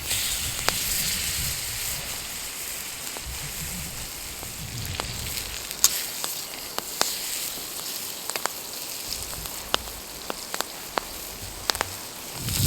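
Food sizzling as it fries over a wood campfire: a steady hiss with scattered sharp pops and crackles.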